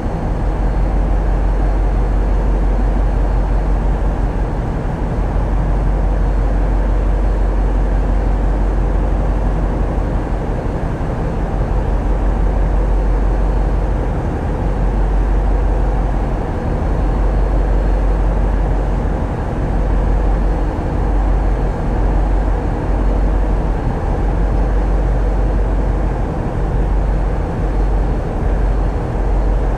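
Tugboat diesel engine running steadily, a loud continuous low drone heard on board.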